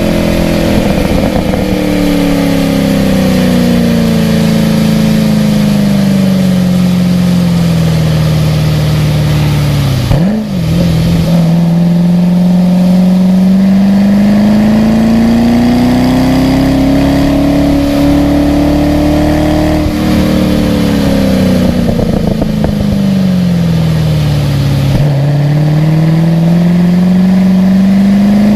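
Race car engine lapping a wet track, its pitch falling as it slows, breaking off briefly about ten seconds in, then climbing and holding before falling again around twenty seconds in and rising near the end. A steady hiss runs beneath it.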